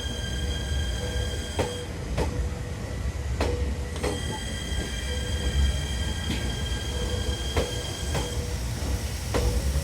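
JR 253 series electric train pulling slowly into the station: its wheels squeal in steady high tones that break off and come back, over a low rumble. Occasional sharp clacks of wheels over rail joints.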